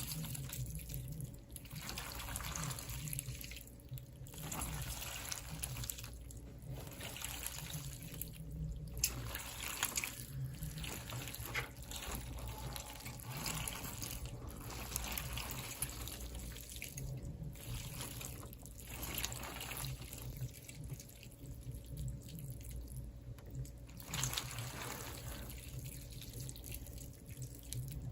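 Irregular water-like trickling and splashing that swells and drops off every few seconds, over a low steady hum.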